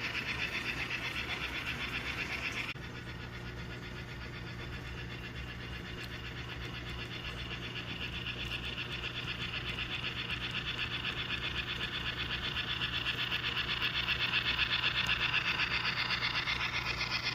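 HO scale model of a Pennsylvania Railroad HH1 2-8-8-2 Mallet steam locomotive running, giving out a fast, even, simulated steam chuff over a steady low hum. The sound drops suddenly about three seconds in, then grows louder to a peak near the end before easing slightly.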